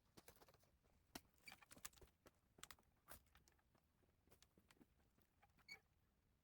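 Faint footsteps crunching in snow, as a series of irregular crunches and clicks.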